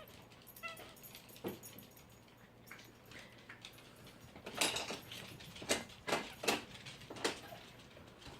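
Dachshund puppy giving a few faint squeaks as she squirms while a feeding tube is passed into her mouth, with scattered sharp clicks and knocks from the handling.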